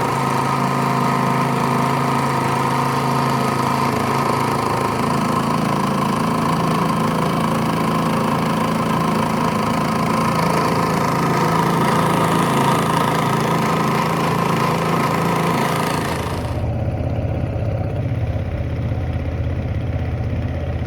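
An engine running steadily at an even speed. About two-thirds of the way through, the hiss drops away and a deeper hum takes over.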